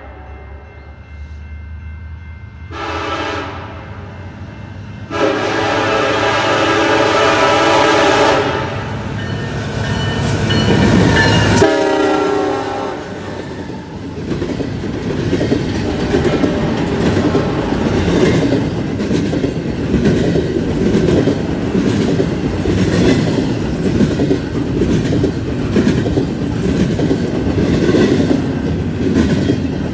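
Diesel freight locomotive horn: a short tap about three seconds in, a long blast from about five to eight seconds, and a last blast near twelve seconds whose pitch drops as the locomotives pass. Then the heavy rumble of the double-stack intermodal cars rolling by, their wheels clicking in a steady rhythm.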